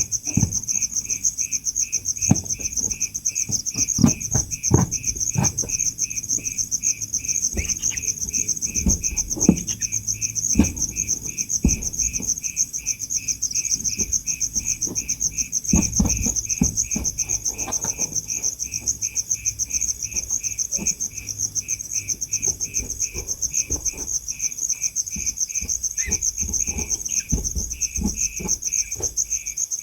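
A steady chorus of chirping insects: a fast, even high-pitched trill with a slower, regular chirping beneath it. Occasional low thumps and knocks sound over it.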